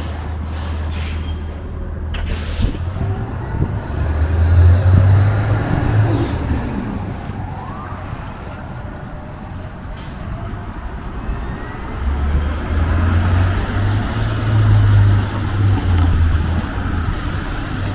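Street traffic, a truck or bus among it, with a deep engine rumble that swells twice as vehicles pass, around four seconds in and again about twelve seconds in.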